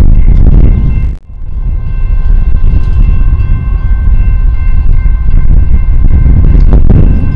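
Diesel-hauled freight train passing: a loud, heavy low rumble with several steady high-pitched tones over it. The sound drops out briefly about a second in.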